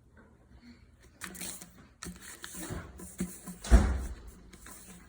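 A sheet of paper being handled and folded by hand, rustling in short bursts, with a dull knock against the table or microphone a little under four seconds in.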